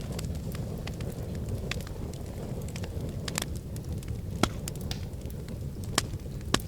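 Wood fire in a fireplace crackling over a steady low rumble, with scattered sharp snaps and pops. The loudest pops come near the end.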